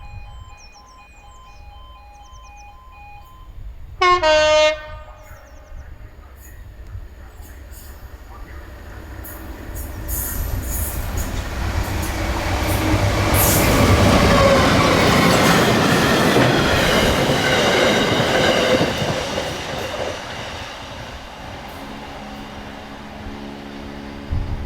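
A diesel train sounds a short horn blast about four seconds in. It then passes close by, its rumble building to a peak about halfway through and fading away. Faint pulsing beeps are heard at the start.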